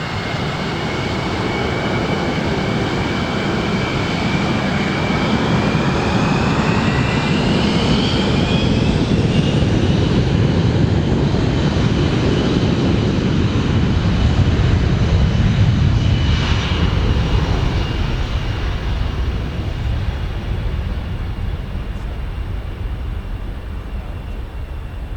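Jet aircraft passing by: the engine roar builds to a peak in the middle and then fades, while a high engine whine climbs in pitch and then drops as the plane goes past.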